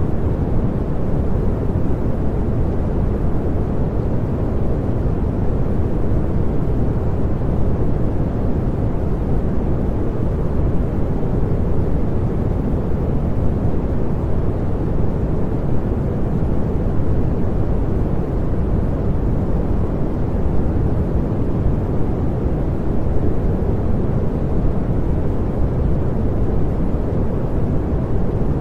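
Steady pink noise: an even, unbroken rushing hiss, weighted toward the low end, with no change in level or character.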